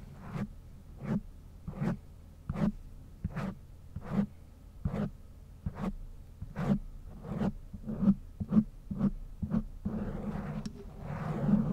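ASMR brush strokes across a microphone: even, separate swishes about one every three-quarters of a second, coming a little quicker later on, then turning into continuous fast scratchy brushing about ten seconds in.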